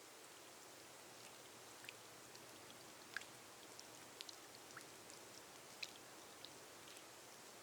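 Faint steady rain on a glass roof: an even hiss with a dozen or so single drops ticking at irregular moments.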